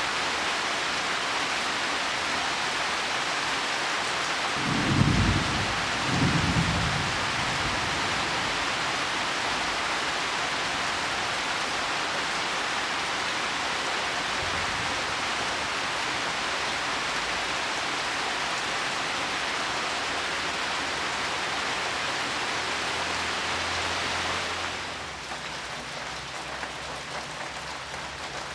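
Heavy rain falling steadily on leaves and soil. Two short low thumps come about five and six and a half seconds in, and about four seconds before the end the rain eases off and becomes quieter.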